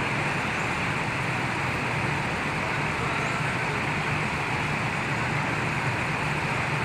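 Hino AK8 bus diesel engine idling steadily, amid the din of a busy bus terminal.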